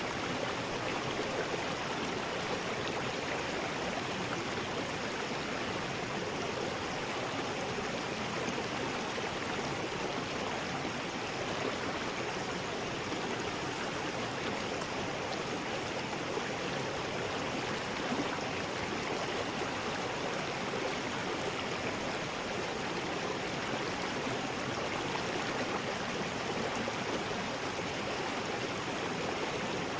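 River rapids rushing steadily, an even wash of white water with no breaks.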